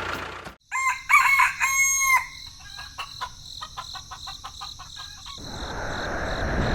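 A rooster crowing, followed by a run of short quick clucks; near the end a rushing noise swells up.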